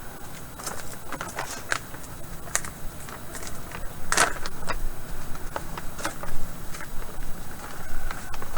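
Container of soluble plant food being handled and opened: scattered light clicks, taps and scrapes, with one sharper knock about four seconds in.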